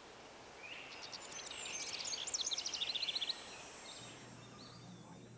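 A small bird singing a quick run of high chirps over a soft background hiss; the song stops abruptly just after three seconds in. A faint steady low hum takes over about four seconds in.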